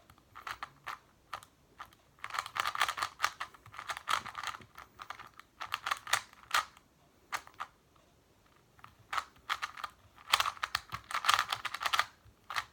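Rapid plastic clicking and clacking of a non-magnetic YuXin Little Magic 2x2 speed cube being turned fast in a timed solve, in quick flurries broken by short pauses.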